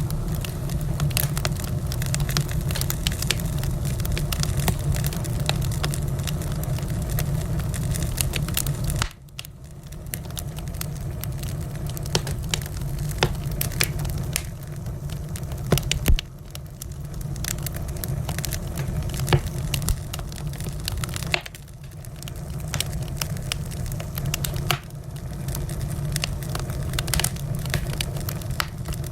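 Wood fire crackling in a fireplace: a steady low rumble of flames with frequent sharp pops and snaps from the burning logs. The rumble drops away abruptly a few times and builds back up.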